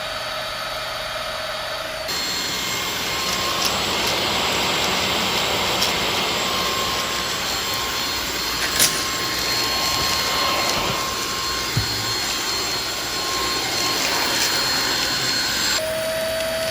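Cordless stick vacuum motor running with a steady whir and whine. About two seconds in it steps up to a louder, higher-pitched setting, then drops back near the end. There is a sharp click about nine seconds in.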